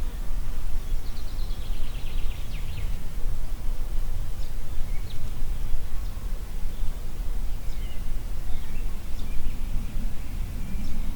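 Wind blowing through a forest with a constant low rumble, while birds sing: a rapid trill falling in pitch about a second in, then scattered short chirps and calls.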